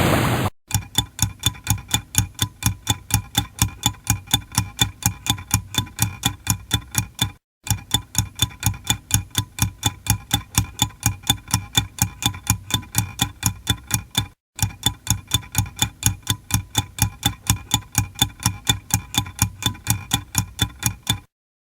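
Mechanical kitchen timer ticking fast and evenly, about four ticks a second, with two brief breaks. It starts just as a loud rushing noise cuts off about half a second in.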